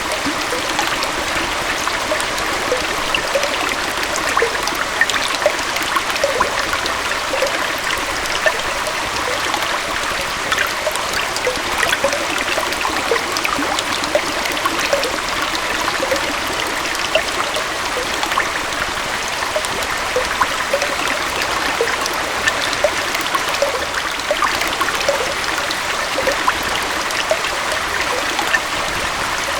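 Small waterfall and stream flowing steadily, an even rushing of water with many small splashes and gurgles.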